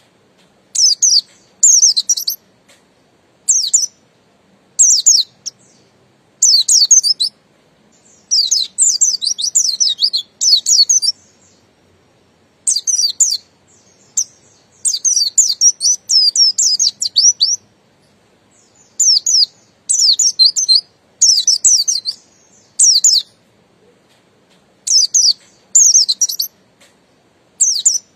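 White-eye (pleci buxtoni) singing: short, high, rapid twittering phrases about a second long, repeated every second or two with brief pauses, running into longer strings of song twice.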